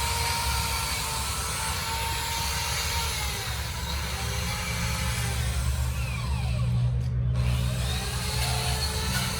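A steady low machine hum, running evenly, with faint higher gliding tones over it.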